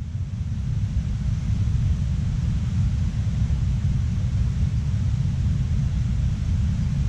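Wind buffeting the microphone: a steady low rumble with a fainter hiss above it and no clear pitched engine note.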